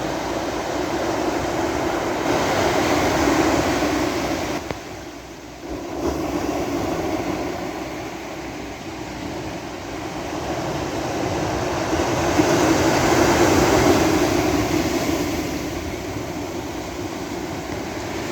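Sea surf washing onto a beach, a continuous rush that swells up twice, with a brief lull about five seconds in.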